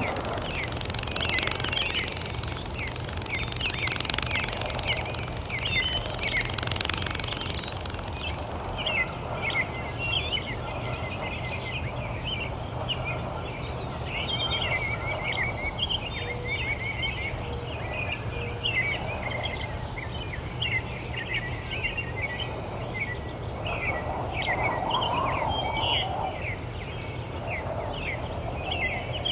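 Many small birds chirping and twittering continuously over a steady low hum, with a few brief rushes of noise in the first seven seconds.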